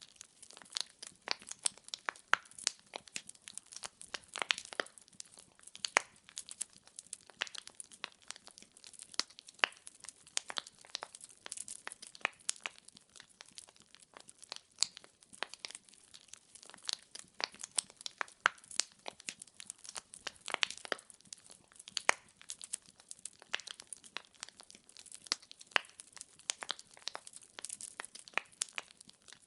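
Wood fire burning, the logs crackling and popping in many sharp, irregular snaps over a soft hiss of flame.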